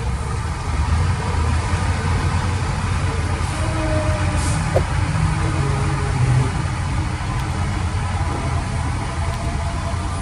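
Heavy diesel machine engine running steadily with a low drone, a brief click about halfway through.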